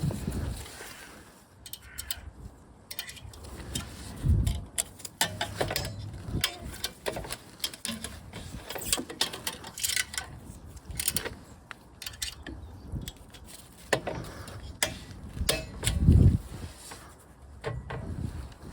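Hand work on a motorcycle exhaust: scattered metallic clicks and clinks of tools and parts being handled, with a low thump about four seconds in and a louder one near the end.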